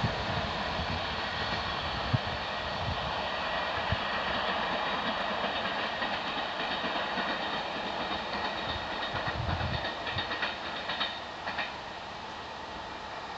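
Intercity passenger train rolling away along the track, its wheel-on-rail rumble and hiss slowly fading. Scattered clacks as the wheels cross rail joints, with a cluster of them before the sound settles quieter near the end.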